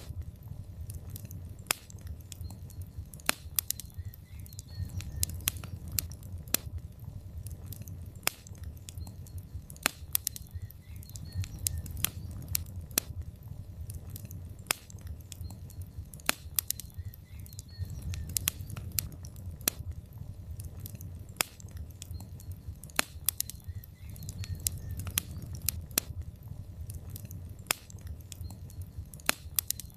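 Burning logs in a fireplace crackling, with irregular sharp pops several times a second over a steady low rumble of the fire.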